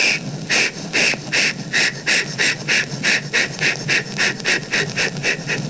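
Steam locomotive chuffing as it pulls away: a run of hissing exhaust puffs that quicken from about two to about four a second, growing fainter near the end.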